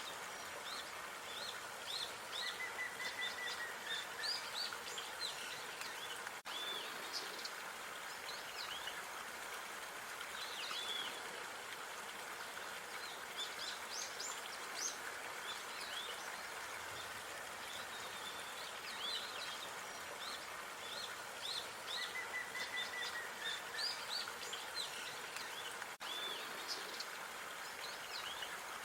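Small songbirds chirping and twittering over a steady outdoor background hiss. A short high trill a few seconds in comes back about twenty seconds later as the recording loops.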